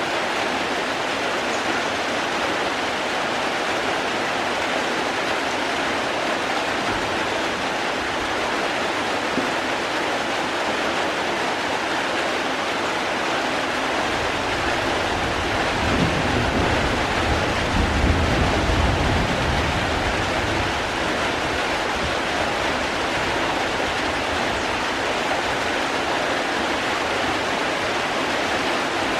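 Steady rain falling, an even hiss. About halfway through, a low rumble swells under it for several seconds and then fades.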